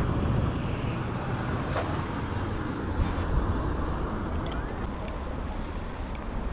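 Steady wind rumble on the microphone of a moving e-bike, mixed with road and traffic noise.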